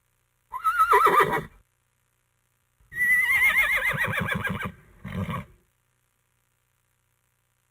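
Horse whinnying in three separate calls. A short quavering neigh comes about half a second in. A longer whinny follows around three seconds in, starting high and quavering downward. A brief lower call comes near five seconds.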